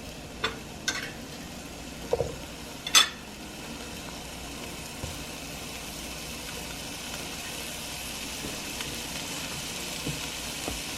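Chopped onions and bell peppers sizzling in melted butter in a pot, a steady hiss that builds slowly. A few knocks in the first three seconds, the loudest about three seconds in.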